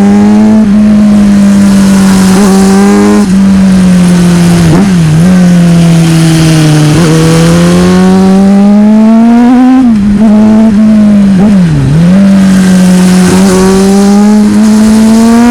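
Motorcycle engine running hard under way, its pitch climbing and falling with the throttle and dropping sharply a few times as the throttle is rolled off or a gear is changed, with a steady rush of wind underneath.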